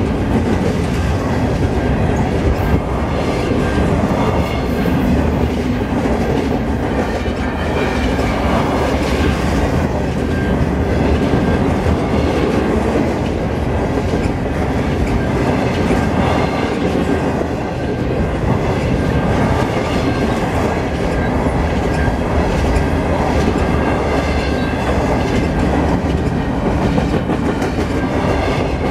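Double-stack container freight train of well cars passing close by. The steel wheels keep up a steady, loud rumble and clatter over the rail joints.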